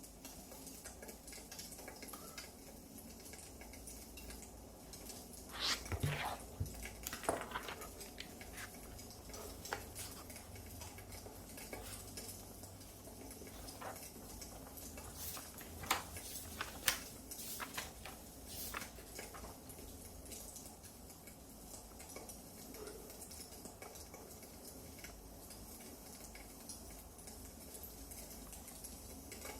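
Wood fire in a fireplace crackling: scattered sharp pops and snaps over a faint steady hiss, busiest in the middle stretch.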